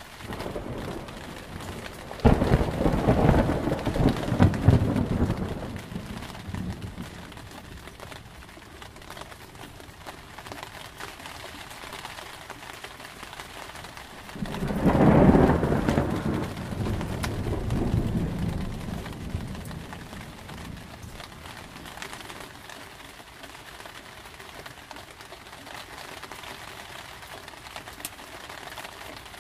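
Steady rain with two rolls of thunder: the first breaks sharply a couple of seconds in and rumbles for about four seconds, the second swells up around halfway and rumbles away over several seconds.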